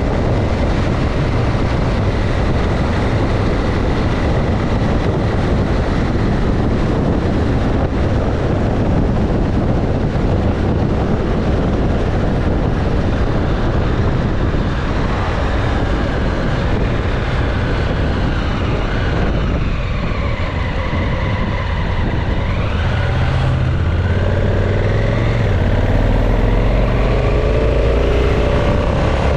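Motorcycle on the move: steady wind rush over the microphone with the engine note underneath. In the second half the engine pitch rises and falls several times as the bike speeds up and slows.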